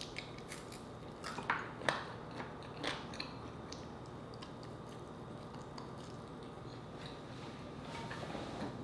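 Close-up mouth sounds of eating fried chicken: crisp crunching bites and chewing. There are a few sharp crunches in the first three seconds, then softer, sparser chewing.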